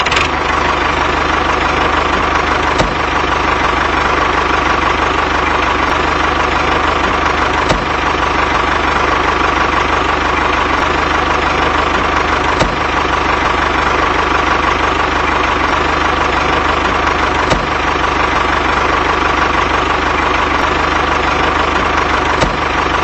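Small engine of a home-built mini tractor running steadily at an even speed, with a brief click roughly every five seconds.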